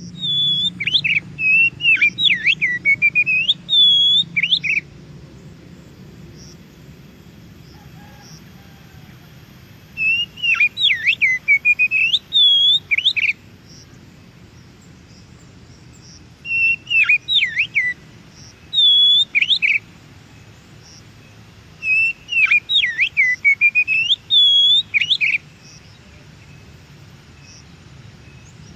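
Oriental magpie-robin (kacer) singing: four bouts of loud, varied whistled phrases, each a few seconds long, with repeated swooping notes, separated by pauses of several seconds.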